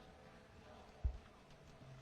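Faint steady background with a single short, low thump about a second in.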